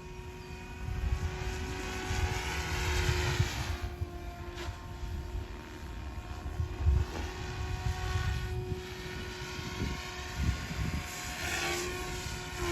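SAB Goblin 500 electric RC helicopter in flight: a steady whine from its rotors and motor that sweeps up and down in pitch as it manoeuvres, over an uneven low rumble.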